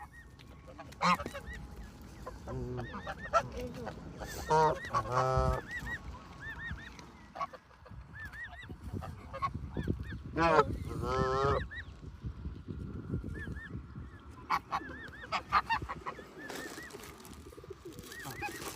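A flock of birds calling, with many short calls throughout and two loud, drawn-out honking calls about five and eleven seconds in.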